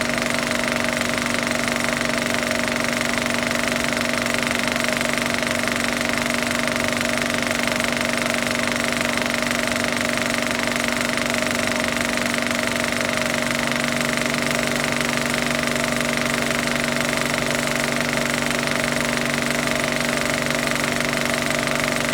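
A film projector running steadily, its motor humming under a fast, even mechanical clatter from the film transport.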